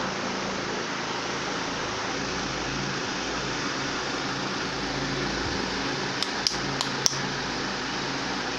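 Venti-Delta New Delta Light ceiling fan running: a steady rush of moving air with a faint low motor hum. A few sharp clicks about six to seven seconds in.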